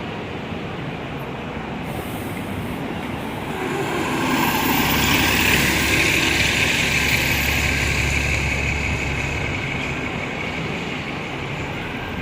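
A heavy street vehicle passing close by: a low rumble with a higher hiss that builds from about four seconds in, peaks a couple of seconds later and fades away.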